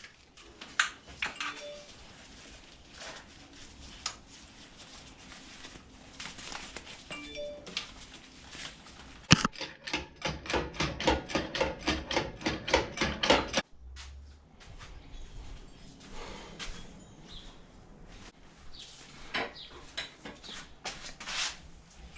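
Metal hand tools clinking against engine parts while the flywheel bolts are worked loose: scattered knocks and clinks, then about ten seconds in a fast, even run of clicks, about five a second, lasting some four seconds.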